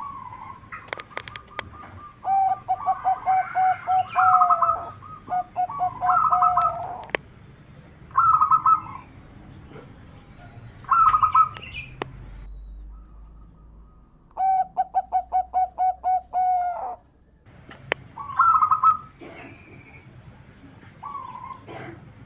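Zebra doves (perkutut) calling: several phrases, each a fast run of short cooing notes, with higher-pitched coos from another bird between them and a few sharp clicks.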